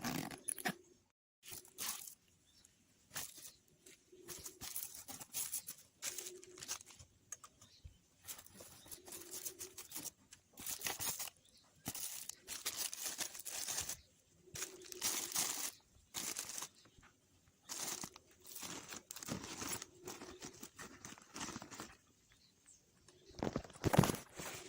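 Irregular rustling and crinkling in short bursts, with brief gaps between them.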